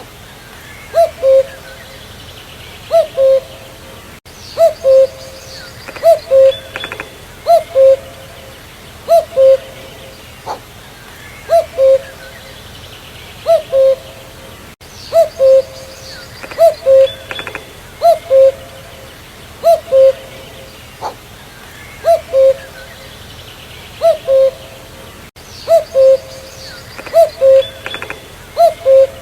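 Common cuckoo (Cuculus canorus) calling its two-note 'cu-coo', a higher note followed by a lower one, repeated steadily about every one and a half seconds.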